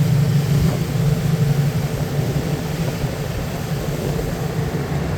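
Ferry's engine running with a steady low drone, under an even hiss of wind and water.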